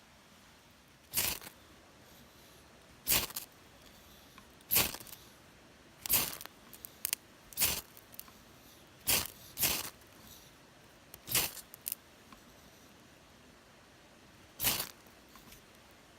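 About nine short rasping strokes at irregular intervals, each lasting a fraction of a second.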